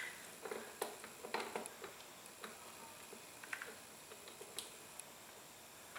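Scattered light metallic clicks and taps of parts and tools being handled while fitting the clutch, several faint ticks spread a second or so apart.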